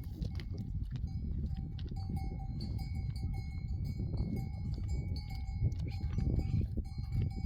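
Livestock bells ringing steadily, over a dense low rumble.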